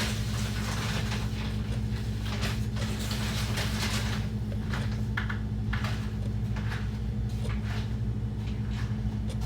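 Irregular crackling and rustling from handling something in a kitchen, short scattered crinkles over a steady low hum.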